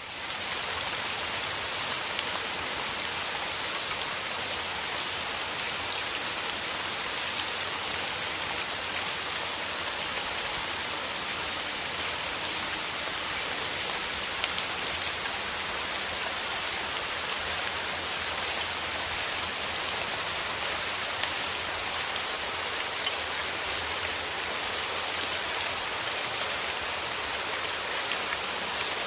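Steady rain falling, an even hiss with scattered small drop ticks. It fades in quickly at the very start and then holds level.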